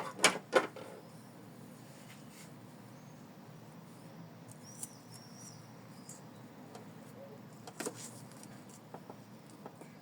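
Hands taping ribbons and lace down onto a hooped embroidery piece: a few sharp clicks and taps in the first second, then quiet handling with a couple more taps about eight seconds in.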